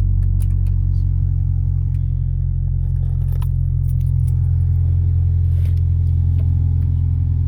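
Ford Ranger pickup's engine idling steadily just after a cold start in freezing weather, with a few light clicks and rattles over the engine sound.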